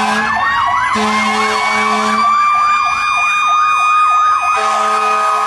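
Fire apparatus sirens sounding together: an electronic siren in a fast up-and-down yelp over a mechanical siren slowly winding up in pitch, with fire truck air horns blasting on and off.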